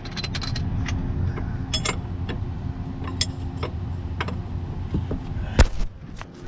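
Scattered metallic clicks and clanks from a wrench working the lower bolt of a shock absorber as the shock moves, with one sharp metal knock about five and a half seconds in, over a steady low rumble.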